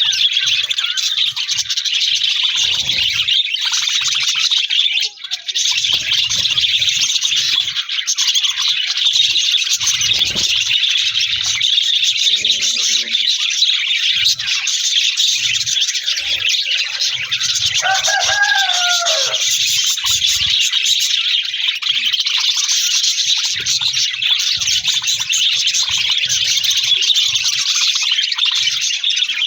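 A flock of budgerigars chattering and warbling non-stop in a dense high twitter. About eighteen seconds in, one lower, wavering call stands out briefly.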